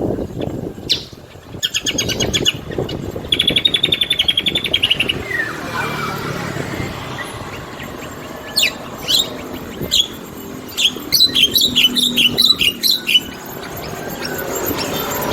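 A songbird singing: a fast trill, a buzzy trill, then a quick run of sharp, falling chirps from about two-thirds of the way in, over a steady low background noise.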